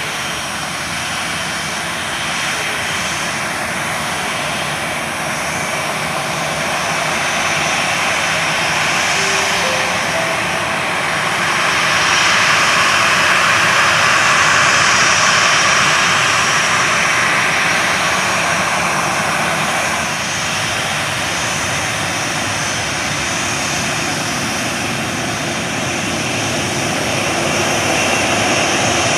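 Jet airliner engines running with a steady roar that swells to its loudest about halfway through, then eases off and rises again near the end.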